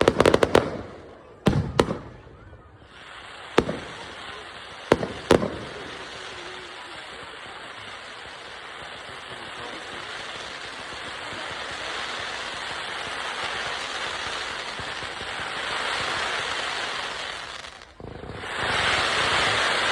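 Fireworks going off: a cluster of sharp bangs in the first two seconds and three more between about four and five and a half seconds in. Under them a long, steady crackling hiss builds, swells near the end, breaks off briefly and starts again.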